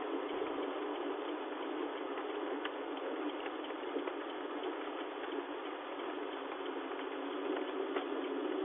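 Heavy rain pattering on a moving car's roof and windscreen, heard from inside the car as a steady hiss scattered with small drop ticks.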